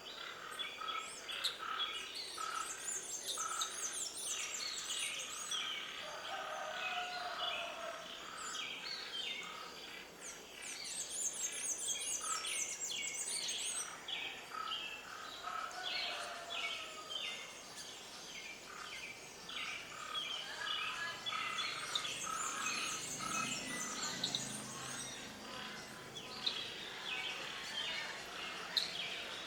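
Several birds chirping and singing at once, many short chirps overlapping, with a high, rapid trill that comes in bursts of two to three seconds three times.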